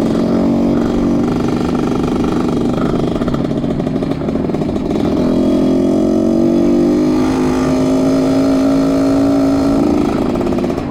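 Trail motorcycle engine running under way, steady in pitch, growing stronger about five seconds in and rising slightly in pitch before easing near the end.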